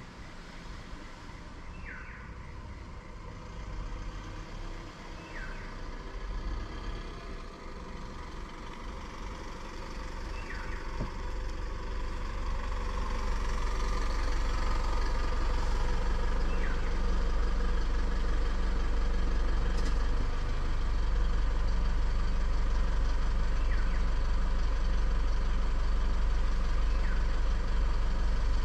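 An engine running with a steady low hum that grows louder about ten seconds in and then holds steady. Short, high, falling chirps sound every two to three seconds above it.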